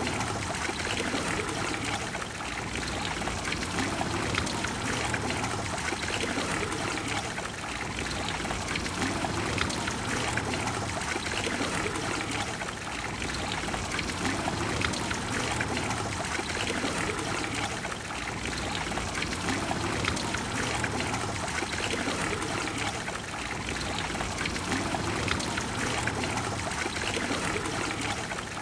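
Water of the Trevi Fountain splashing and flowing steadily into its basin, an even rush of falling water.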